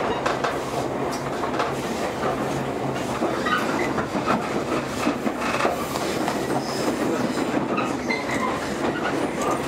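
JR 115-series electric train running, heard from aboard: a steady rumble of wheels on rail with rail-joint clatter, a low hum that fades a few seconds in, and a few short wheel squeals.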